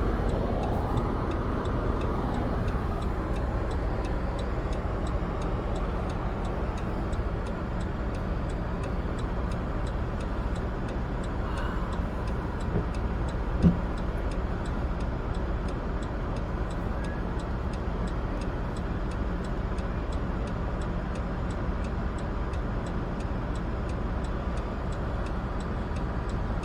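Steady hum of a stopped car with its engine idling, heard from inside, with a faint rapid ticking running over it. A single sharp click about halfway through.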